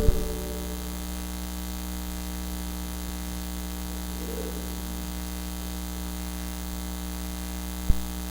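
Steady electrical mains hum with a faint buzz and hiss, picked up in the church's audio feed, the fault that gives the recording its bad sound. A short thump comes near the end.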